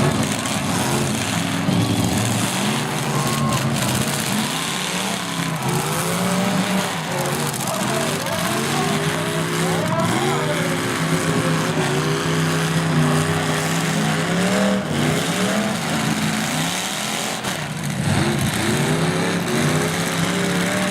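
Demolition derby cars' engines revving up and down together, with occasional crashes of cars hitting each other.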